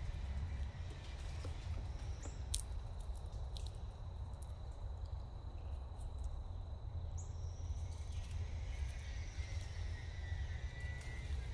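Outdoor ambience: a steady low rumble, with a few sharp clicks early on and faint bird calls in the second half.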